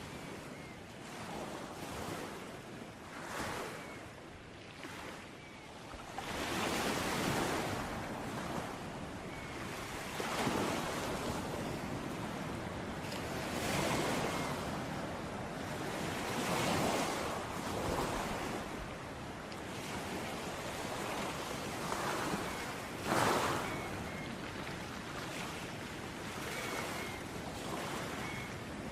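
Ocean waves breaking on a shore, surf swelling and washing in every few seconds over a steady rush, one break louder than the rest near the end.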